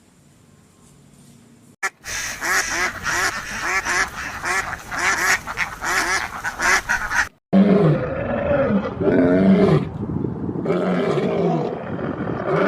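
Ducks or geese quacking in a quick run of short calls, about two or three a second, starting about two seconds in. After a sudden cut, a different animal makes deeper, louder calls until the end.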